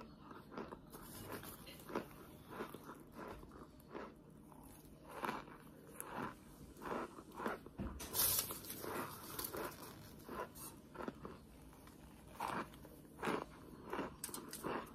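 Close-up chewing and crunching of chunks of Argo laundry starch: irregular short crunches every second or so, the loudest about eight seconds in.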